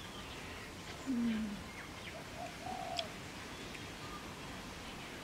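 Birds calling outdoors, loudest a single low falling dove-like coo about a second in, with fainter higher calls after it. A metal spoon clinks once against the bowl about three seconds in.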